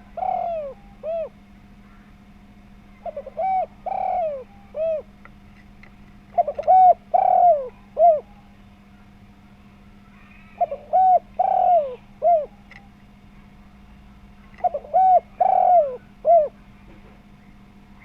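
Spotted dove cooing in a full, round voice: repeated phrases of a few quick notes, a longer coo and a short closing note, one phrase about every four seconds, five in all. A faint steady hum lies underneath.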